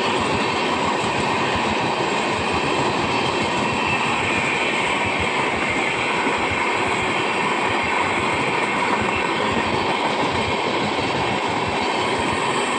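Express train's passenger coaches passing close at speed: a steady rush of wheels on rail with rapid clickety-clack.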